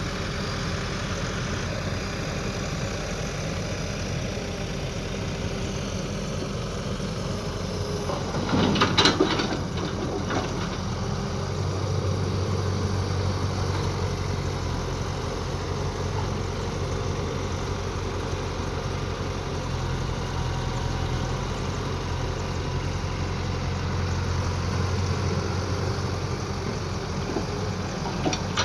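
Mini excavator's diesel engine running steadily, its low hum strengthening a little before halfway as the machine works. A short burst of clanking impacts comes about a third of the way in.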